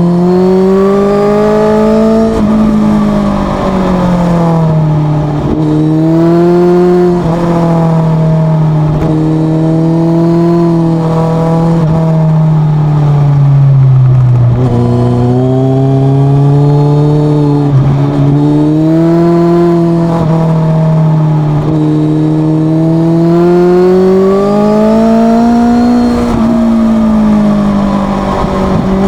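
Suzuki GSX650F's inline-four engine through a Leo Vince exhaust with the dB killer removed, running loud and steady. The pitch climbs and drops again every few seconds as the rider opens and rolls off the throttle and changes gear.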